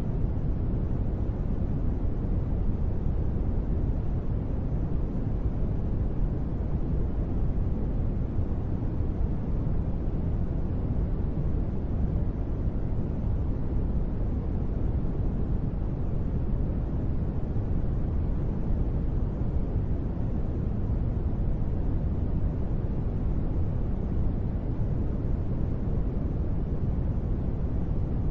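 Steady, deep ambient noise sold as gentle rain, muffled with little hiss and no separate drops heard; it stays unchanged throughout.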